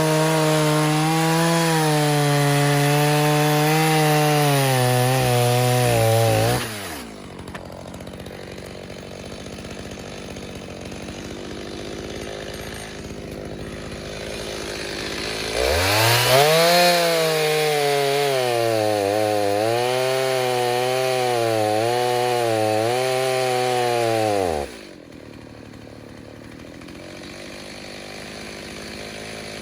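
Stihl 029 two-stroke chainsaw with a 45 mm piston and cylinder, running at full throttle in a cut and then dropping to idle about six seconds in. It revs up again for a second cut around the middle of the clip, its pitch dipping several times under load, and falls back to idle near the end.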